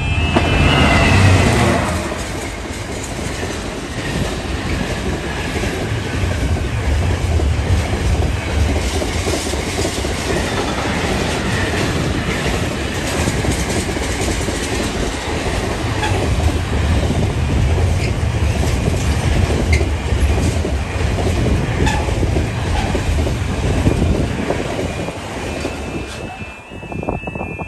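Train passing at speed close by, a long loud rush of wheel and rail noise with wheels clattering over the track, a brief falling tone about a second in. Near the end, as the train clears, a repeating stepped warning tone comes back in, typical of a level crossing alarm.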